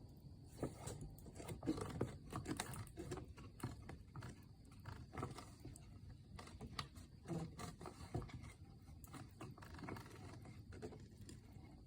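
Wood fire crackling, with irregular snaps and pops from the burning firewood.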